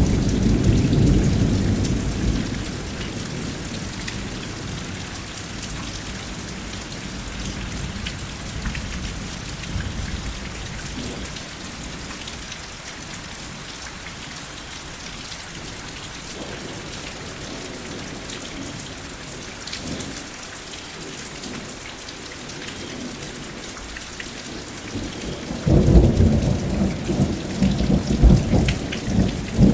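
Steady rain with thunder: a low rumble of thunder dies away over the first few seconds, and a fresh, louder rolling peal of thunder breaks in near the end over the continuous rain.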